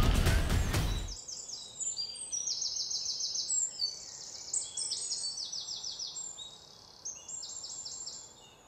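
Loud music cuts off suddenly about a second in. Then small birds chirp over quiet outdoor ambience, in repeated quick, high trills.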